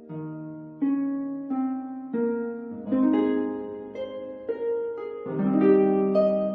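Background music of plucked string notes and chords, each starting sharply and ringing away, in a slow, steady succession.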